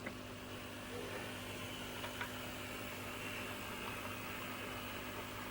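Steady low electrical hum over a faint hiss, with a couple of faint ticks about two seconds in.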